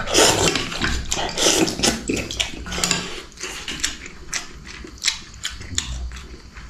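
Eating at a table: utensils clicking against a bowl, with noisy slurps or chews in the first few seconds, then scattered lighter clicks.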